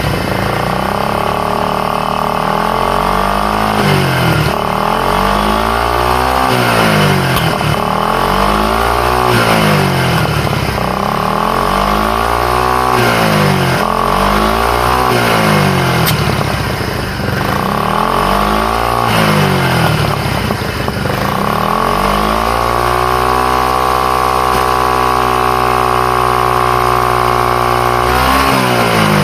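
Suzuki Skywave 250 scooter's single-cylinder four-stroke engine revved in repeated throttle blips, about one every two seconds, then held at a steady higher rev for several seconds before dropping back near the end. The unserviced engine is being test-run to show that it starts and runs.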